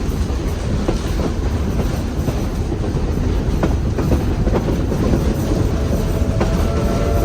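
Train running along the track: a steady low rumble with scattered clicks of the wheels over rail joints. Near the end, a steady held horn tone of several notes starts up.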